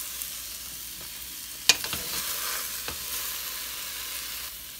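Eggplant slices sizzling in hot oil in a stainless steel pot as they are scooped out with a spoon, with light scraping clicks and one sharp knock about a second and a half in.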